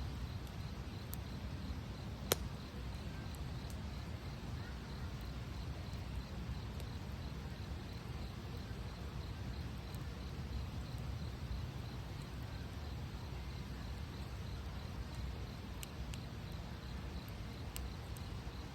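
Wood campfire burning with a low steady rush and scattered sharp crackles, the loudest pop about two seconds in.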